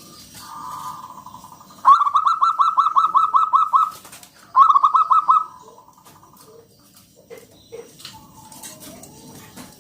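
Zebra dove (perkutut) calling: a held note, then a loud, rapid run of short cooing notes at about six a second, then after a brief pause a second, shorter run.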